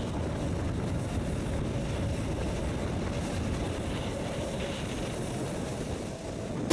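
Passenger train running, a steady low rumble with a faint hum.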